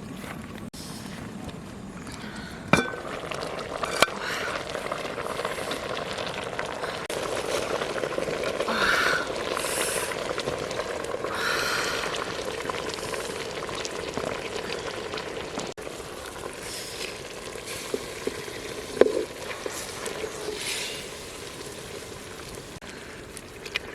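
Food sizzling and frying in a pan while it is stirred, with a few sharp knocks of a utensil against the pan.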